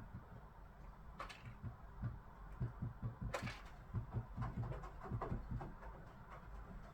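Great spotted woodpecker pecking at a piece of lard: a quick, irregular run of soft, dull taps, with two sharper clicks, one about a second in and one near the middle.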